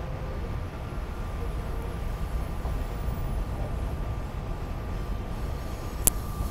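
A SEPTA regional rail train running, heard inside the passenger car: a steady low rumble from the wheels and running gear with a faint steady hum over it. There is a single sharp click about six seconds in.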